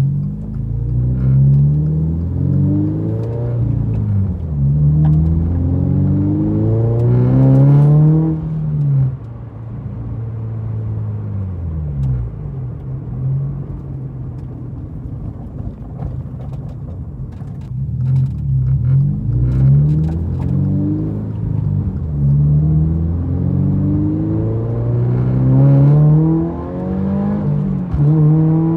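Toyota GR86's 2.4-litre flat-four with an aftermarket Remark axle-back exhaust, accelerating through the gears: the engine note climbs in pitch and drops at each upshift, settles into a steadier cruise for several seconds in the middle, then pulls up through the gears again.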